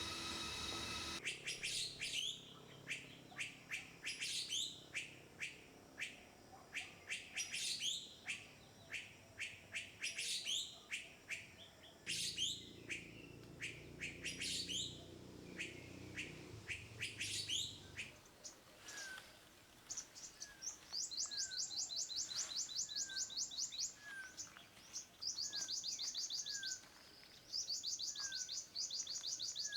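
Philippine fairy-bluebird calling, a series of sharp sliding high notes repeated every second or two. Then, after a cut, Isabella oriole recording: short down-slurred notes about once a second, alongside bursts of a rapid high buzzing trill.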